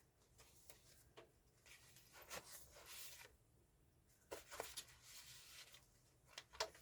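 Faint rustling of paper pages of a handmade junk journal being turned and handled, in two soft spells, with a light tick near the end.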